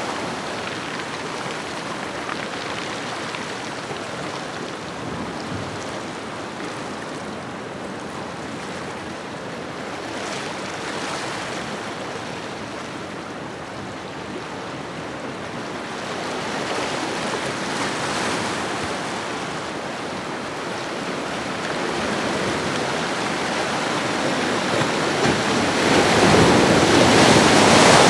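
Ocean waves washing on a shoreline, a steady surf noise that swells and ebbs, building to a louder breaking wave near the end.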